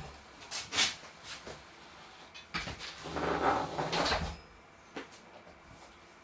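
A few short knocks and scrapes, then a longer scraping rustle from about two and a half to four seconds in, and a single click near the end.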